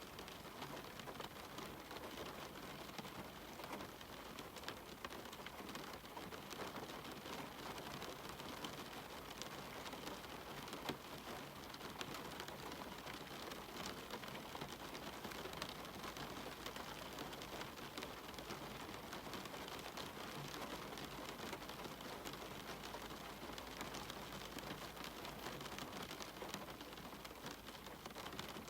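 Steady rain falling, a constant hiss scattered with many small drop ticks.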